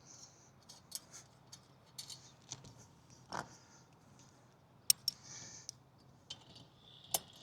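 Faint, scattered metallic clicks and short scrapes from hand tools and antenna mast clamp hardware, with a few louder sharp clicks near the end.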